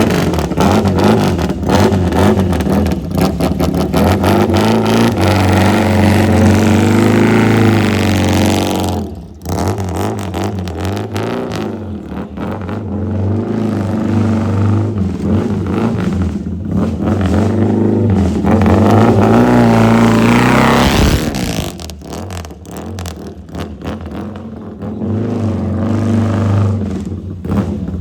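Classic Rickman-framed motorcycle running and being ridden round, its engine revving up and down through the gears with a brief drop in revs about nine seconds in and a rising sweep near twenty seconds in. It sounds healthy and is geared very high.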